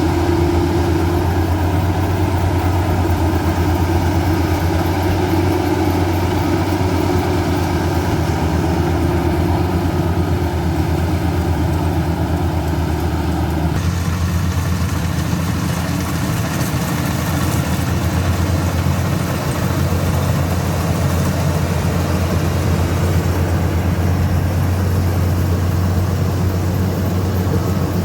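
Combine harvester engine running steadily, a loud, even low drone. Its tone changes abruptly about halfway through.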